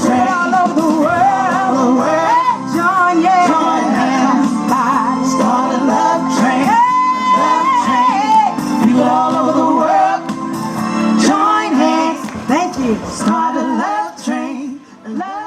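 A song with male and female singing over a band, one long held, wavering vocal note about halfway, fading out near the end.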